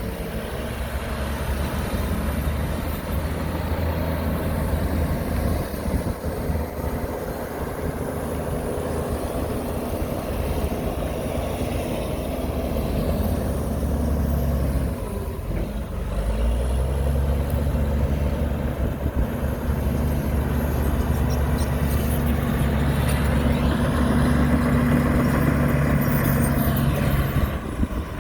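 Heavy diesel engine of earthmoving machinery running steadily. It eases off about halfway through, then picks up again and holds louder until it drops off near the end.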